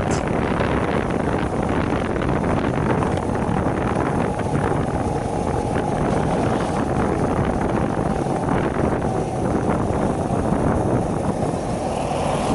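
Wind buffeting the microphone of a rider on a moving Shineray 50cc motorcycle, steady and heavy, with the small engine's steady note running underneath.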